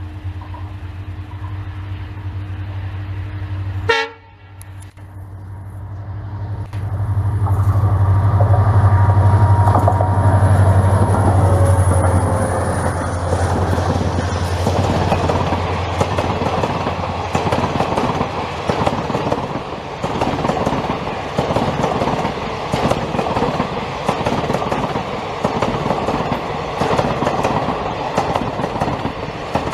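Electric locomotive hauling a passenger express up a steep ghat gradient: a steady low hum that cuts off sharply about four seconds in, then builds up loud as the locomotive passes close by. After that the coaches roll past with a rhythmic clickety-clack of wheels over rail joints.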